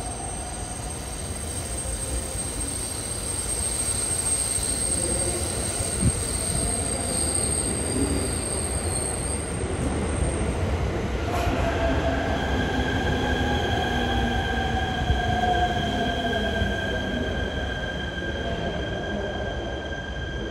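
JR East electric train moving slowly along a station platform: a continuous low running rumble with steady high-pitched whines, a gliding motor-like pitch in the second half, and a single sharp knock about six seconds in.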